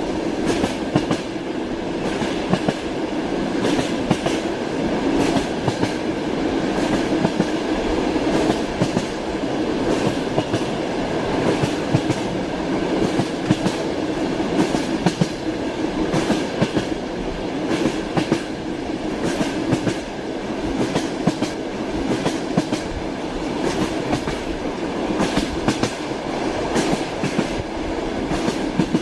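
Train wheels clattering over the rails as a train runs along: a steady running noise with frequent, irregular clicks from the wheels over the track.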